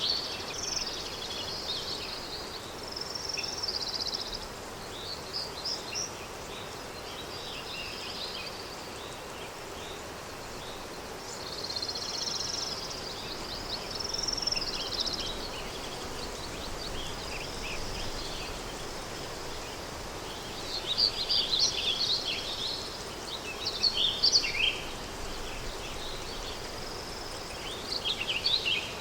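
Countryside daytime ambience: several small birds chirping and warbling in short bursts, busiest about two-thirds of the way through, over a steady soft rush of wind.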